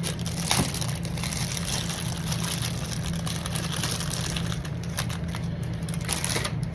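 A steady low machine hum with a hiss over it, and a few faint rustles and clicks from trading cards and their plastic sleeves being handled.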